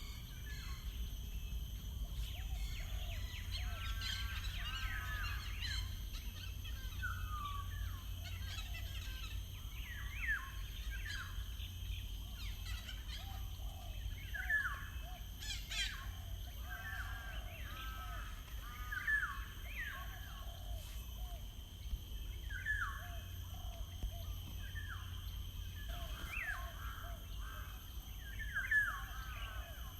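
Wild birds chirping and singing: short falling chirps repeat every second or two, over a steady low rumble of background noise.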